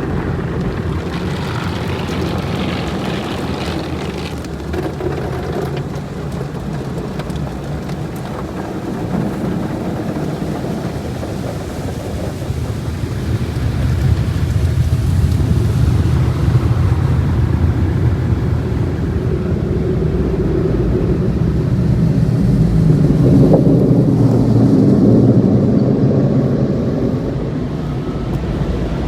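Car wash equipment running with water spraying, a loud steady rushing noise that swells louder about halfway through and again near the end.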